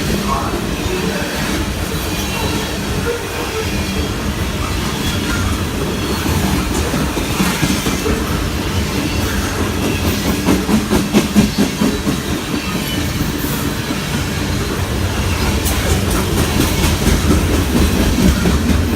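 A train passing close by on the tracks, its wheels rolling over the rails, with a run of quick rhythmic clacks about ten seconds in.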